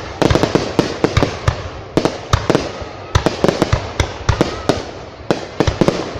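Aerial fireworks bursting in quick, irregular succession: many sharp bangs, several a second, with crackling between them.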